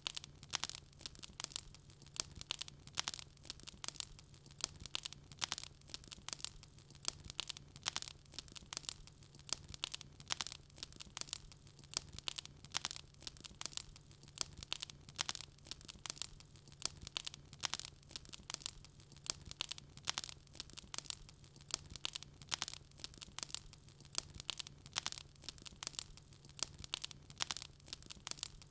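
Wood fire crackling, with dense irregular sharp pops and snaps several times a second and a faint steady low hum underneath.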